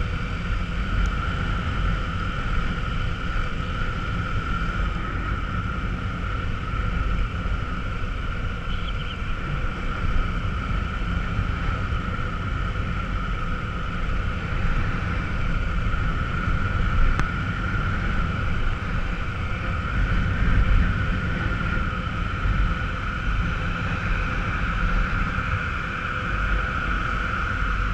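Honda NXR 150 Bros motorcycle's single-cylinder engine running steadily at cruising speed, mixed with wind and road noise from riding.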